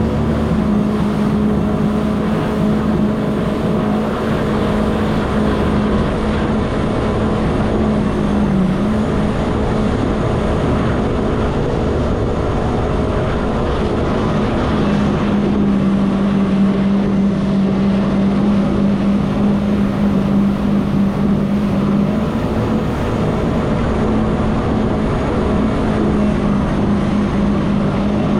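Jet ski engine running steadily at speed, with water and wind noise over it; the engine note dips briefly about eight seconds in, then holds steady again.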